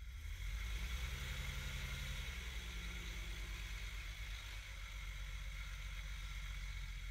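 1973 Jaguar E-Type's 5.3-litre V12 engine running after its start: louder about a second in with a brief raised note, then settling into a steady idle.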